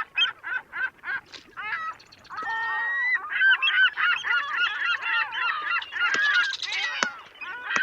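A flock of geese honking: separate honks at first, then many overlapping honks from about two and a half seconds in.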